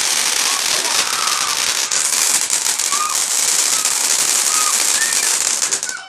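A loud consumer firework going off in a dense, rapid crackle of sharp pops over a steady hiss, ending abruptly near the end.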